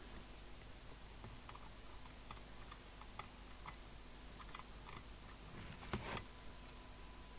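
Faint scattered small clicks and taps of hands and tools working on a CB radio chassis, with a louder brief rustle about six seconds in. A faint steady whistle starts near the end.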